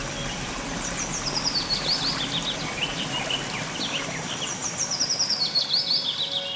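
A bird singing a long run of rapid high chirps that step down in pitch, twice, with other short bird calls scattered around it, over a steady background hiss.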